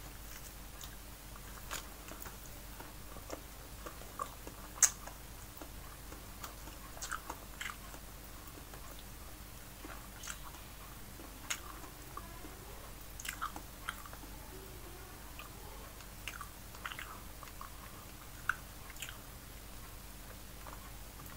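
Close-miked chewing and mouth smacks of a person eating steamed fish by hand: scattered short clicks at irregular intervals, a sharper one about five seconds in.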